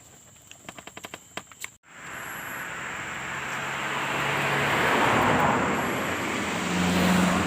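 A few faint clicks, then after an abrupt break the rush of wind and road noise from a moving touring motorcycle builds up, with the engine running underneath.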